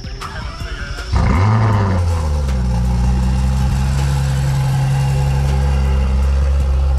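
Ferrari F12tdf's 6.3-litre V12 starting up: it catches with a loud burst about a second in, then settles into a steady idle.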